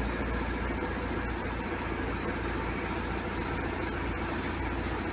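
VW Caddy 1.9 SDI naturally aspirated four-cylinder diesel idling steadily with its diesel clatter, just after starting. It keeps running instead of dying after a second or two, because the Bosch ECU has been unlocked so that the immobilizer no longer cuts the engine.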